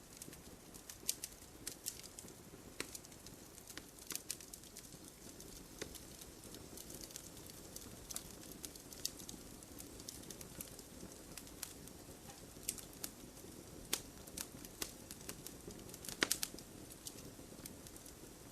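Wood fire burning in an open fireplace: a low steady hiss with irregular crackles and pops, a brief cluster of louder pops near the end.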